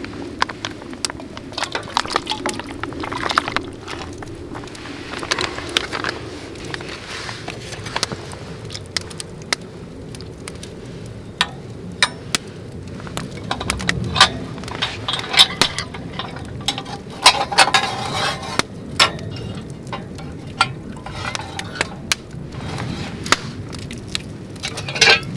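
Irregular clinks, taps and knocks, as of hard objects being handled, with a brief ringing note a little past the middle.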